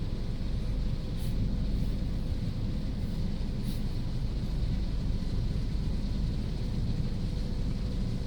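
Automatic car wash machinery running with a steady low rumble and a faint steady hum, with a couple of brief high hisses about a second and three and a half seconds in.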